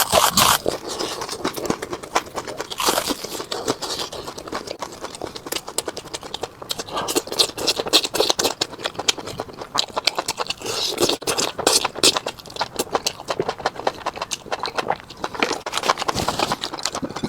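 Close-miked eating of fried Spanish mackerel: crunching and chewing, a dense, irregular run of crisp clicks and crackles.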